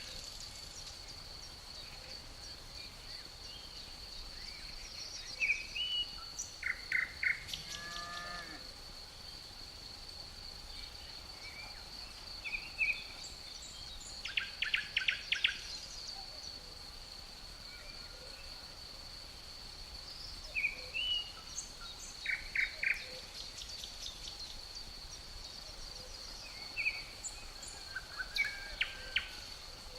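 Forest ambience: crickets keeping up a steady high trill, with songbirds singing short phrases of rapid repeated notes every several seconds. About eight seconds in, a brief low call slides down in pitch.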